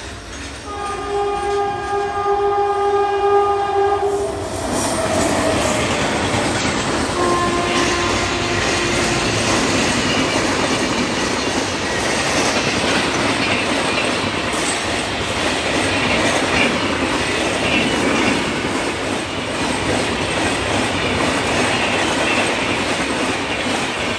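Air horn of a WAP7 electric locomotive sounding a long blast as the express approaches, sliding down in pitch as it passes, with a second shorter blast a few seconds later. Then the loud, steady rumble and wheel clatter of passenger coaches rolling by at speed.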